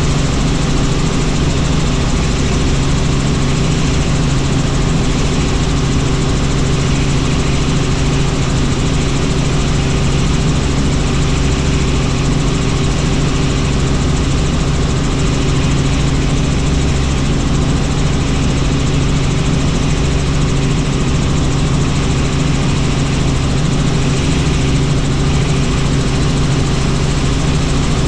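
Helicopter in flight: steady, loud engine and rotor noise, a constant low hum under a broad hiss.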